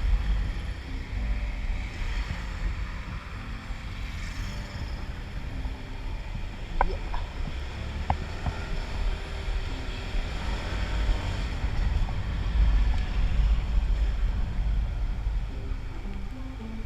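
Wind buffeting a helmet-mounted action camera's built-in microphone while riding, with the Honda Click 125i scooter's single-cylinder engine running underneath. Two brief, sharp high sounds come about seven and eight seconds in.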